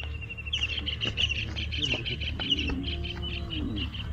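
Small birds chirping in a fast run of short, high calls, several a second, over a steady low rumble.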